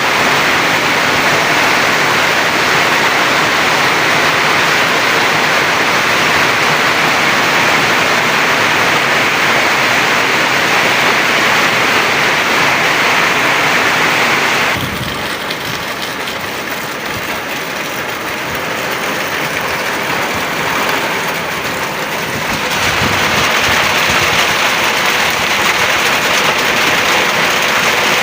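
Heavy rain pouring down in a steady, even roar. It becomes quieter about halfway through for several seconds, then comes back as loud as before.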